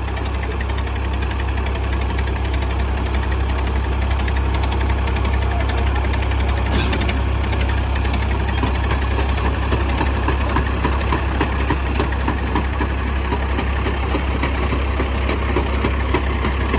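Diesel tractor engines running steadily: a heavy, constant low drone with a rapid knocking beat from the engine firing, a little louder after the first couple of seconds.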